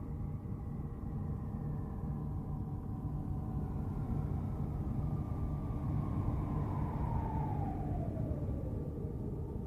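NASA space sound recording: a steady low, noisy drone with faint whistling tones above it, one of which glides downward in pitch over about two seconds near the end.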